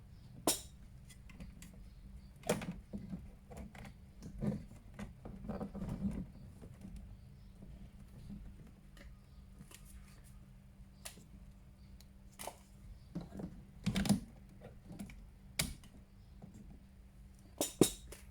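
Scattered sharp clicks and taps with some soft rustling, from a plastic action figure's parts and packaging being handled, over a faint steady low hum.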